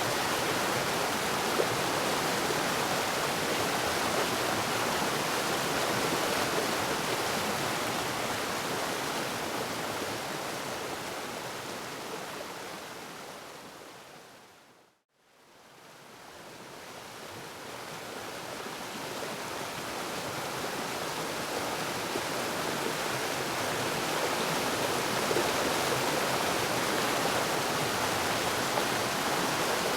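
Waterfall rushing steadily; about halfway through it fades out to silence and then fades back in.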